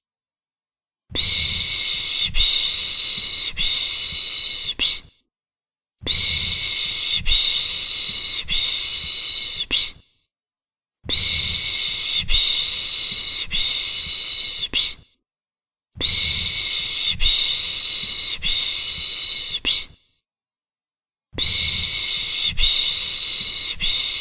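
Rhythmic 'piş piş' shushing for lulling a baby: runs of about four hissing shushes lasting about four seconds, each run followed by a second of silence, five runs in all.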